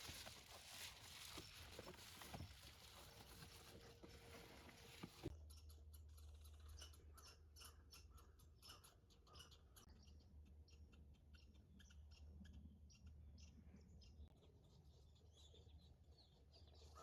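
Near silence: a faint hiss, then after an abrupt change about five seconds in, faint scattered clicks over a low hum.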